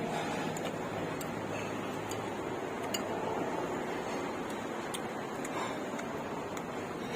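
Light, irregular clicks and clinks of eating utensils against a noodle bowl, over a steady background hum.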